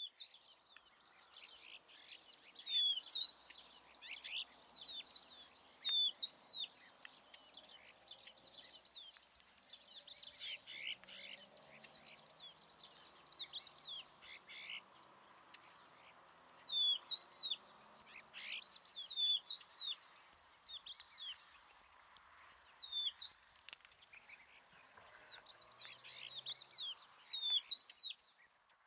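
Birds chirping and calling: many short, high calls that sweep downward, coming in bursts throughout, over a faint outdoor hiss.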